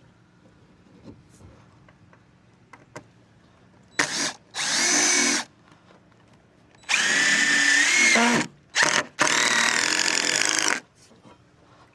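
Power drill driving screws into composite decking boards, in separate runs: a short pair about four seconds in, then longer runs from about seven to eleven seconds. The motor's whine bends in pitch as each screw loads it, and each run stops abruptly.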